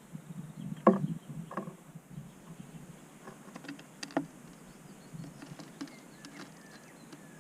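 Birds pecking and hopping on a wooden bird table close to the microphone: sharp taps, the loudest about a second in, then scattered lighter ticks, with faint bird chirps behind.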